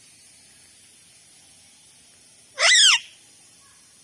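A pet parrot gives one short, loud screech about two and a half seconds in.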